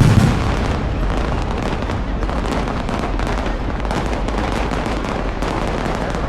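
Fireworks going off: a low boom at the start, then steady, dense crackling and popping from many bursts.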